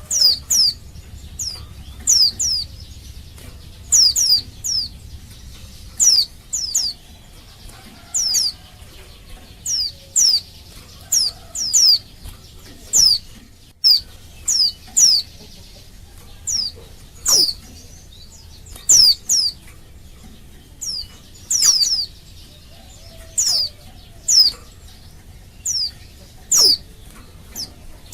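Female white-eye (pleci) repeatedly giving short, high calls, each note sweeping down in pitch, mostly in twos or threes every second or two. This is the female's call to males, used as a lure to set male white-eyes singing.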